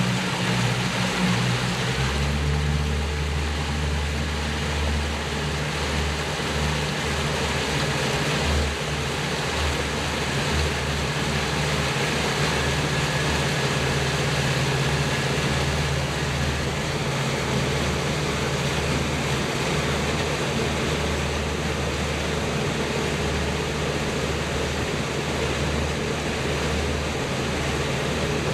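Boat motor running steadily under way, a low even hum that strengthens about two seconds in, over a constant rush of wind and water.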